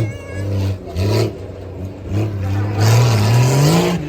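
Truck engine revving hard in repeated surges, its pitch rising and dropping, with a longer climb in pitch near the end.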